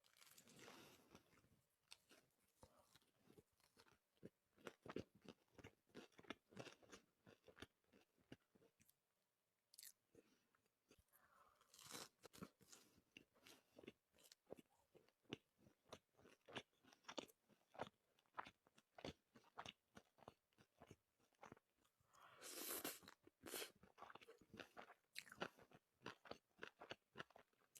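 Faint, close-up mouth sounds of a person eating sushi: quick, irregular crunching and chewing clicks throughout, with a couple of louder, noisier stretches about twelve and twenty-three seconds in.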